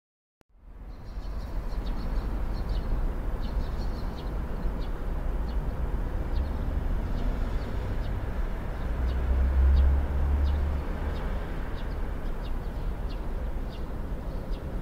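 Birds chirping repeatedly over a steady low outdoor rumble, which swells briefly about ten seconds in.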